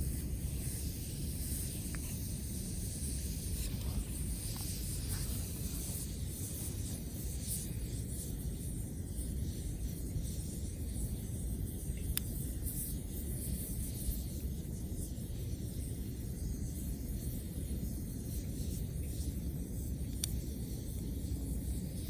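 Wood fire crackling, with a few scattered sharp pops over a steady hiss and a constant low rumble.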